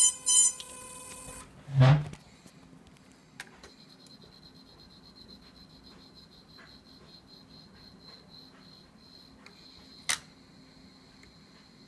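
Power-up beeps, then a thump about two seconds in as the DJI Zenmuse Z-15 gimbal initialises, after which its brushless motors give a faint, steady, high-pitched buzz over a low hum, with a click near the end. The buzz after initialisation is the fault: the gimbal had worked fine for 20 flights but now buzzes on every startup.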